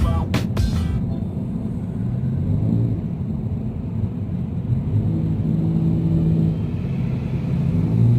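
A few sharp pops in the first second, then a steady low mechanical rumble with a hum that shifts slightly in pitch, like an engine running.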